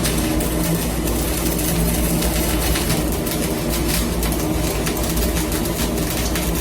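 Gas torch flame running steadily while brazing a copper pipe elbow: a continuous hiss with fine crackling over a low hum.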